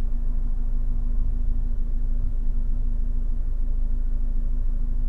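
124 Spider's 1.4-litre MultiAir turbo four-cylinder running with a steady low rumble and hum, even and without stumbles at this point, although the engine is being checked for a cylinder 4 misfire and rough idle.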